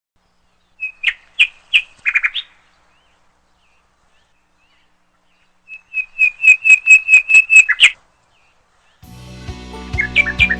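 Short, high whistled notes all on one pitch: a few spaced notes about a second in, then a quick run of about eight about six seconds in. Music with a strong bass starts about 9 s in.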